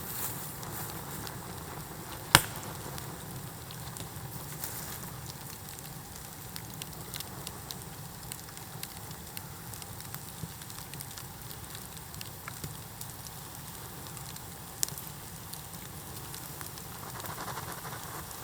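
Bamboo bonfire burning with a steady crackle and scattered sharp snaps, and one loud pop about two seconds in.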